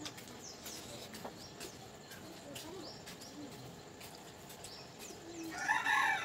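Birds chirping in the background in short falling chirps, with a few short low calls and a louder call about six seconds in.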